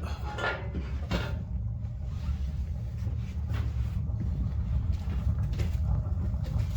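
Wood fire burning in a TMF Viziera fireplace stove, its door ajar and dampers open, with a steady low rumble from the strong chimney draught and a few faint crackles.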